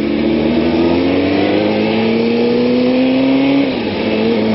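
Sport-bike inline-four engine pulling hard, its pitch climbing steadily. It drops abruptly for an upshift a little before the end and then climbs again, over steady wind rush.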